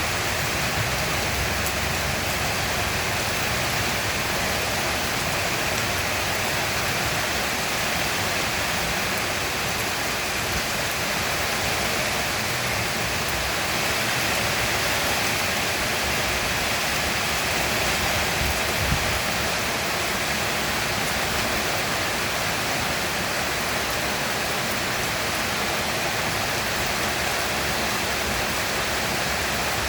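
Heavy monsoon rain falling steadily, a dense, even hiss of downpour.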